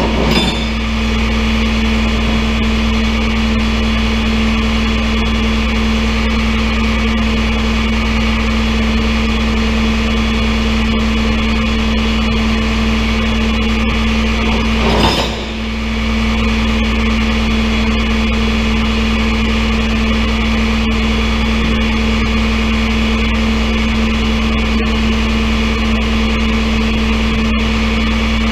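Tow truck engine running at a steady speed with a constant hum. It is briefly interrupted by a short dip and click about halfway through.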